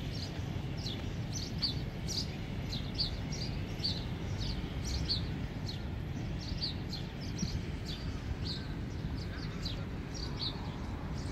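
Small birds chirping over and over, short high downward chirps about two or three a second, over a steady low rumble of outdoor background noise.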